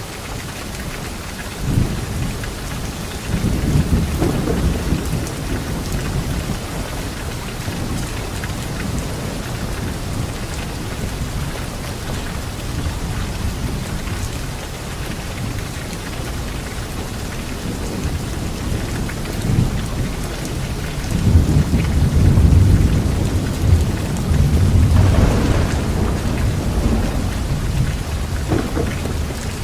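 Steady light rain falling on leaves, with thunder rumbling twice: a shorter roll a couple of seconds in and a longer, louder one past the middle.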